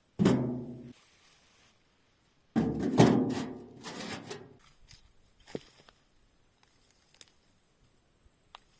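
Red bricks tossed into a metal wheelbarrow: a loud clatter that rings and dies away, then a longer run of several clattering hits about two and a half seconds later, followed by a few light knocks.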